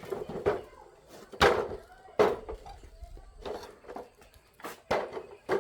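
A series of irregular wooden knocks and thuds, about nine in all, each sharp with a short ringing tail, the loudest about one and a half and two seconds in.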